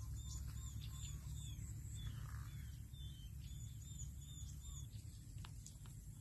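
A bird calling in a quick string of short, repeated chirps, about three a second, which stop about five seconds in. Under it run a steady high-pitched whine and a low rumble, and a few sharp clicks come near the end.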